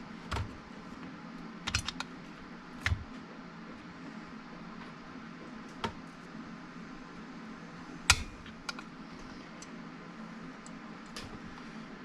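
Irregular small clicks and taps of a screwdriver working at the intake clamp of a chainsaw, prying it loose. The sharpest click comes about eight seconds in.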